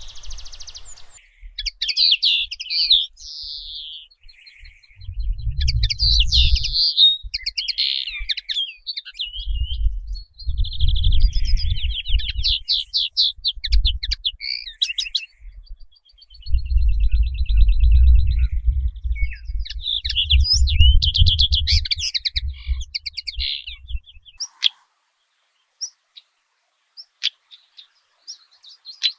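Songbirds singing in quick, varied chirps and trills, dropping to just a few scattered chirps near the end. A low rumble comes and goes underneath in several spells.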